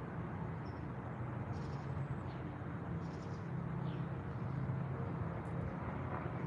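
A few faint, short bird chirps over a steady low rumble, which is the loudest sound throughout.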